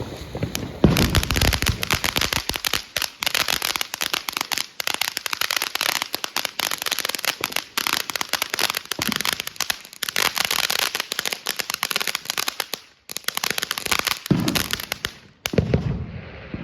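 Ground fountain firework from a TNT Good vs Evil pack spraying, a dense run of crackling and hissing pops that starts about a second in, falters briefly, then stops shortly before the end.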